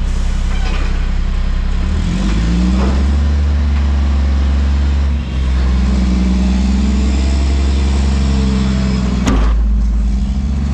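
Front loader garbage truck's diesel engine revving up about two seconds in and held high to drive the hydraulics. A single sharp bang about nine seconds in, after which the engine drops back toward idle.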